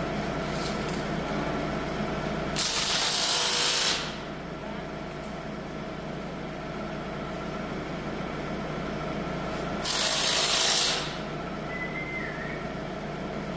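Holder C70 tractor's engine running steadily, with two loud hisses of about a second each, one near the start and one about ten seconds in.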